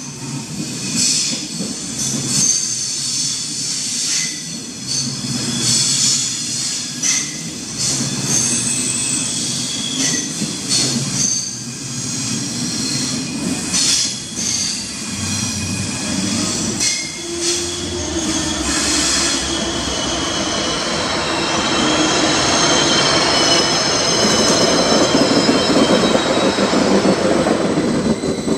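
German ICE high-speed train rolling slowly along the platform, its wheels clicking over the rail joints about once a second and squealing thinly. In the last third a second train, a BLS double-decker, comes alongside with a rising rush of wheel and motor noise that becomes the loudest sound.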